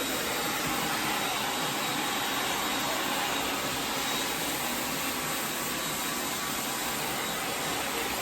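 A hair dryer running steadily, a constant rushing blow with a faint high whine.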